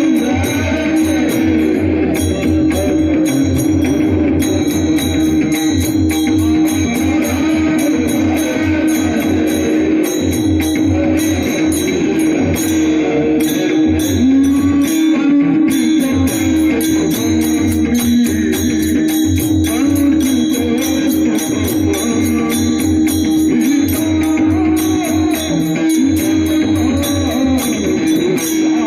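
Varkari kirtan music: pakhawaj drum strokes and small hand cymbals keep a fast, even rhythm under a steady held drone, with a wavering melody line over it.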